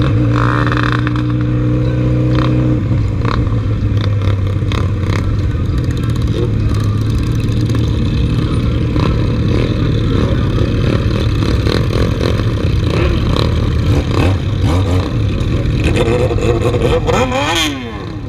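Motorcycle engines revved hard against the rev limiter, held high and cutting in and out with many short sharp stutters over a steady engine note. Near the end one engine's pitch drops and climbs again.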